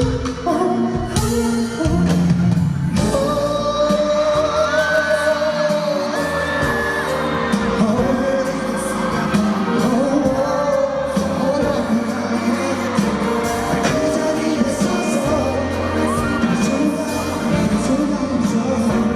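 Male pop singer singing live over a band backing, holding long notes with vibrato and sliding between some of them.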